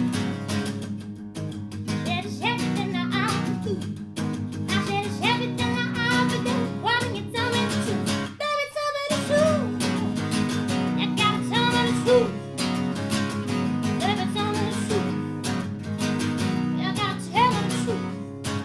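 Live song on acoustic guitar: steady strummed chords with a wordless sung melody gliding over them, and a brief break in the guitar about eight and a half seconds in.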